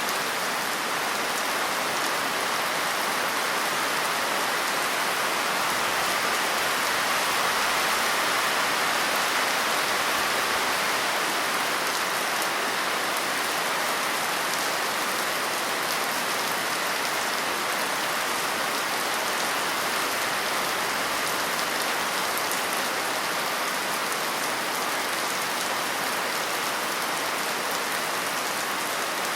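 Steady rain falling on a surface, a dense, even hiss of many drops.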